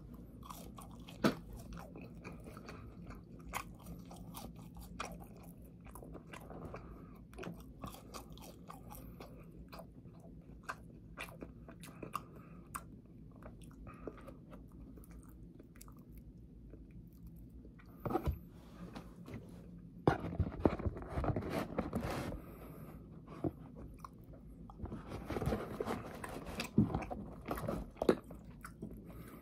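Close-miked chewing and biting of french fries, with many small mouth clicks and a few louder, denser stretches of noise about two-thirds of the way through and again near the end.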